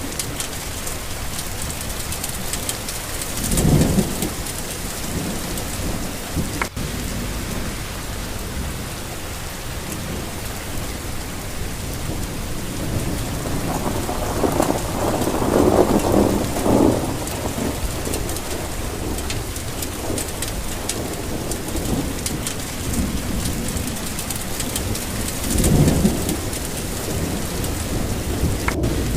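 Steady rain falling, with rolls of thunder: a short one about four seconds in, a longer, louder one in the middle, and another short one near the end.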